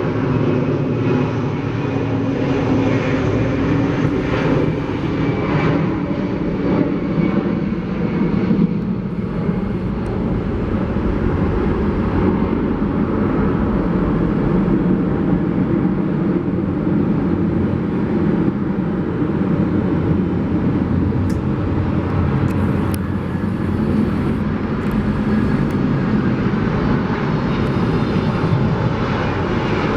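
Airliner engines, a loud, steady rush of noise that holds at the same level throughout.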